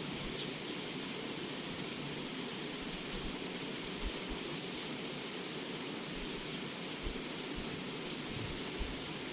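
Heavy rain pouring steadily against a window, an even hiss of rain with no clear thunder.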